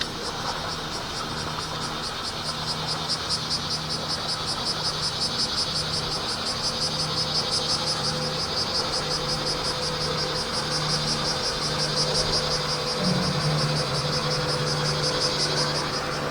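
Bear cicadas (kumazemi) singing: a loud, fast-pulsing buzz that builds in strength and fades off near the end, over a steady low hum.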